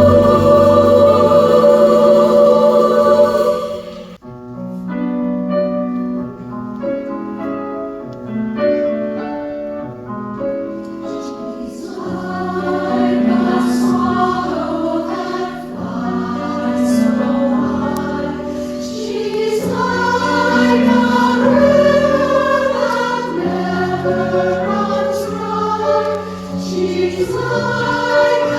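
Women's chorus singing: a loud held chord breaks off suddenly about four seconds in, then a quieter passage of short notes grows into full choral singing from about twelve seconds on.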